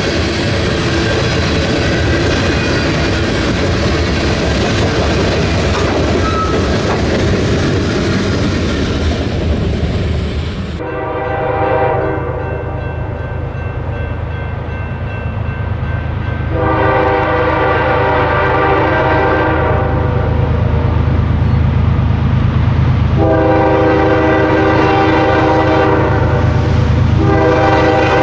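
A freight train rolling past with loud, steady wheel-and-rail noise, which cuts off suddenly about eleven seconds in. Then comes a diesel locomotive's low rumble, with its multi-chime air horn sounding three long blasts, the last still going at the end.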